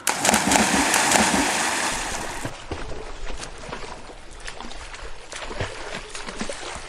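A sudden loud rush of splashing water that settles after about two seconds into lower sloshing with scattered small clicks.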